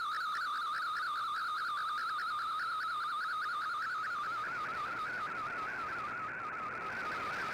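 Shortwave digital-mode data signal from a radio receiver: a warbling tone that hops quickly up and down within a narrow pitch range. A hiss of static rises under it about halfway through.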